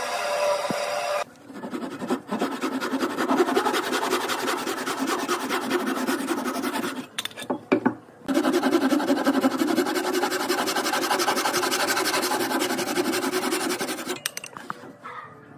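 Wood being abraded by hand with rapid rubbing, rasping strokes, in long spells that pause about seven seconds in and again near the end. A steady machine tone at the very start stops about a second in.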